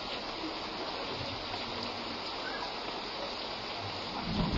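Heavy rain falling steadily in an even hiss.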